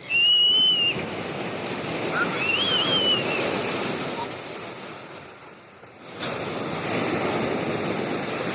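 Black Sea surf in a small storm: waves breaking and washing up the shore, with wind buffeting the microphone. Two high, wavering calls sound in the first few seconds.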